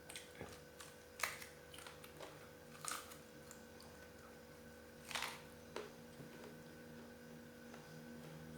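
Someone eating on camera: about three short crunchy bites, roughly one, three and five seconds in, with small chewing and clicking noises between, over a faint steady hum.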